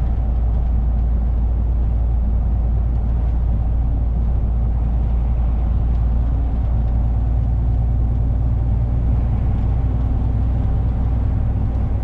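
Lorry's diesel engine and road noise heard inside the cab while driving, a steady low drone.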